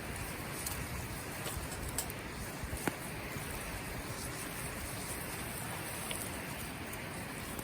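Campfire burning: a steady hiss broken by a few sharp crackles, the strongest about two and three seconds in.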